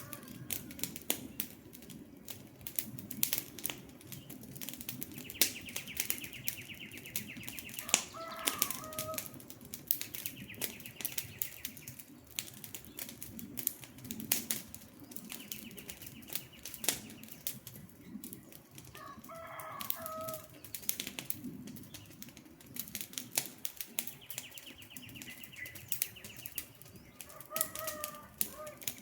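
Wood campfire crackling and popping over a steady low rush of flame. A bird call repeats about every ten seconds, and in between a high rattling trill of about two seconds recurs.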